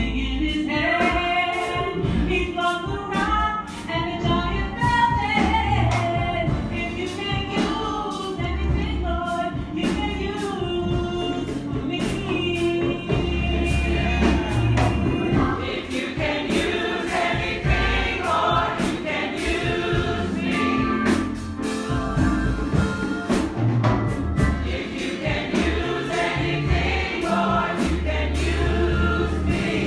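A church congregation singing a gospel song together, backed by a band with bass notes and drum strikes.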